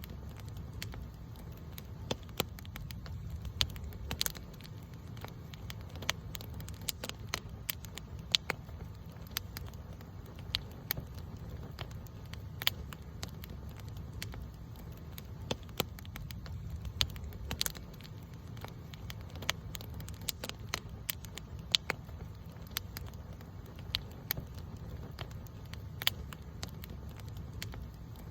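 Campfire burning and crackling: frequent irregular sharp pops and snaps over a steady low rumble.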